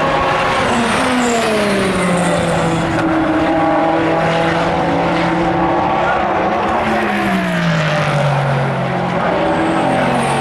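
Race cars going past at speed, their engine notes dropping in pitch as they pass, several cars overlapping at once. One pass-by comes about half a second in and another about six and a half seconds in.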